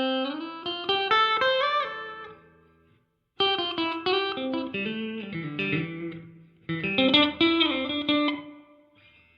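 Clean electric guitar phrases of single picked notes and bent notes, played through a digital room reverb with the decay set halfway; each phrase rings out and dies away with a short reverb tail. Three phrases, with a brief silence about three seconds in.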